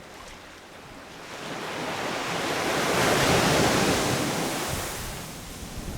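Sea waves breaking on a sandy beach: one wave swells up, crashes about three seconds in and washes back, fading away, with a little wind on the microphone.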